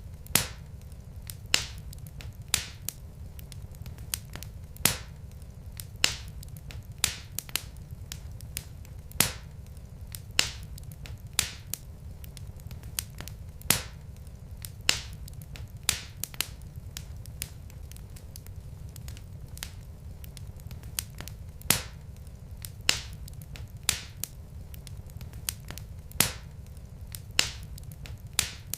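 Wood fire burning in a fireplace: irregular sharp crackles and pops from the logs, one every second or so, over a steady low rumble of the flames.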